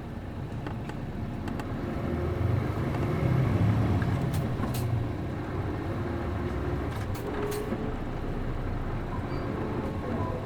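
Mitsubishi Fuso Aero Star city bus's MD92TJ diesel engine running under way, heard from inside the cabin. The engine grows louder a couple of seconds in as it pulls harder, then eases back, with a few short clicks or rattles in the middle.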